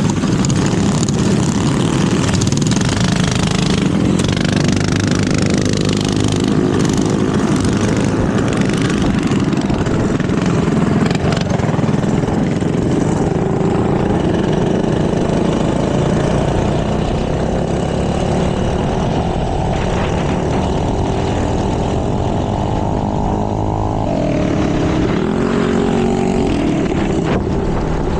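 Minibike engines running on a group ride, their pitch rising and falling as the throttle is opened and closed, with a drop in revs about three-quarters of the way through.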